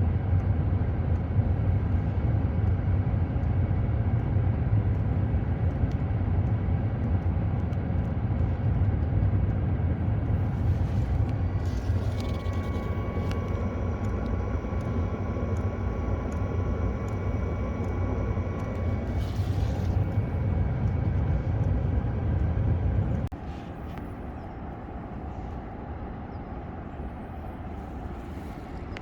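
Webasto 2 kW parking air heater running with a steady low rumble. A faint high whine joins for several seconds around the middle, and the rumble drops markedly about 23 seconds in.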